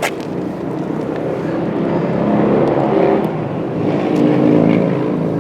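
A passing motor vehicle's engine running, growing louder through the middle and easing off near the end.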